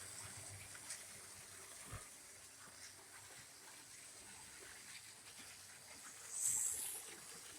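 HO-scale model train running on the layout's track: faint ticking, and a short burst of high-pitched hissing screech a little over six seconds in, heard as a little grindy.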